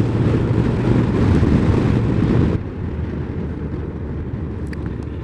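Honda CBF1000's inline-four engine and rushing wind and road noise while riding. The level drops suddenly about two and a half seconds in, the rush thinning out.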